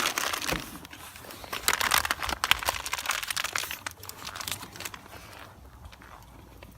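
MRE plastic pouches crinkling as they are handled, a dense crackly rustle that fades out about five seconds in.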